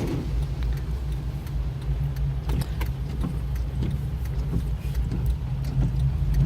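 Steady low rumble of a car driving, heard from inside the cabin, with scattered short taps of rain hitting the car.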